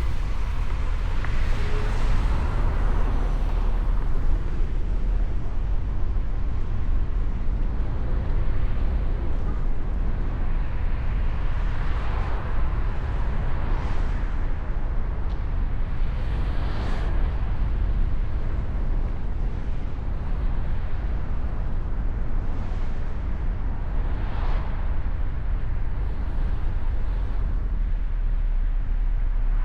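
Mustang convertible on the move: a steady low rumble of engine, tyre and wind noise, with several passing vehicles swelling briefly and fading along the way.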